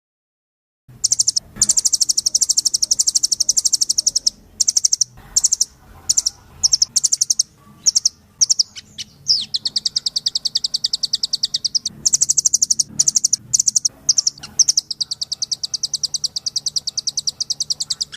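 Rambatan (nuthatch) singing: a fast, high trill of rapidly repeated notes in long runs, broken by short pauses and a few shorter phrases. It begins about a second in.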